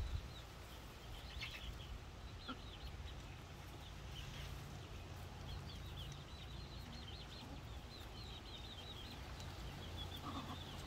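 Faint bird chirping: runs of short, high notes that come and go, over a low background rumble.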